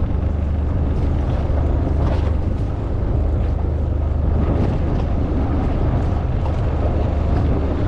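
A boat's motor running steadily, with wind and water noise over it.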